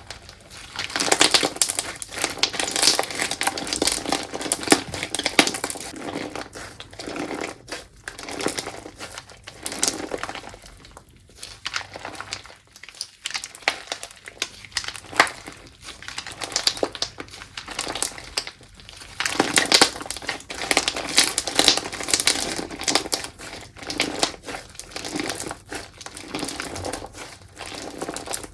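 Slime being played with by hand, giving a dense run of small crackling pops and clicks that comes in bouts with brief pauses.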